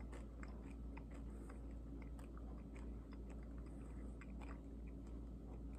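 Faint chewing of a Manchurian scorpion, with scattered small crisp clicks as it is bitten and crunched.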